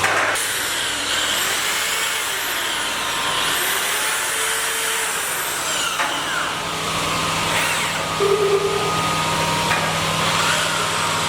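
Power tools running steadily, with a few rising and falling high whines.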